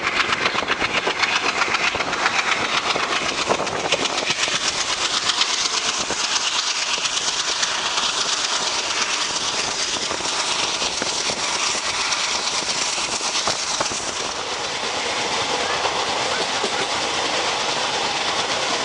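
Passenger train coach in motion, heard from its open doorway: a steady rushing rail noise with fast wheel clatter over the rail joints, plainest in the first few seconds. The noise dips briefly about 14 seconds in, then settles into an even rush.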